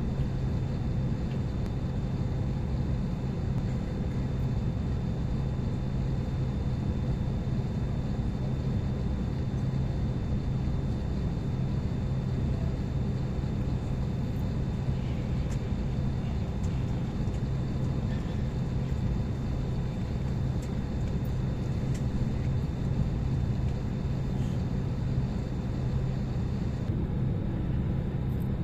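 Steady low drone and hiss inside an airliner cabin on the ground, with the ventilation running during a wait for departure clearance. The sound stays level throughout, with a few faint steady tones riding on it.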